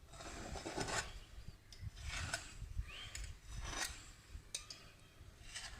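A container lid pressed and twisted into rolled-out maida dough to cut round momo wrappers, giving several short scraping rubs.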